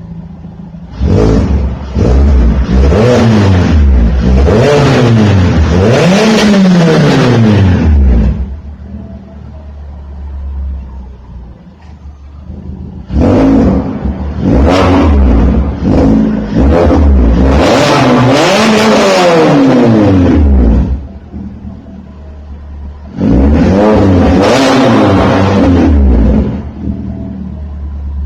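Citroën C2 1.6 VTR's petrol four-cylinder engine, breathing through a decat exhaust with 4-1 headers, a mid-silencer and a Varex valved muffler, idling and then blipped through three rounds of quick, rising-and-falling revs with idle between. The first round of revs comes with the Varex valve shut; the later two come with it open.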